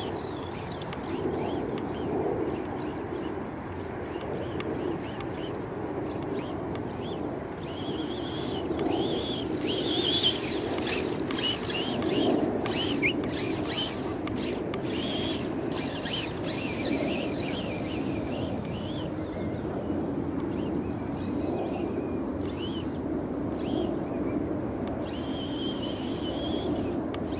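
Vaterra Glamis Uno electric RC dune buggy driving around, its motor whine rising and falling several times as it speeds up and slows down, over a steady outdoor rumble.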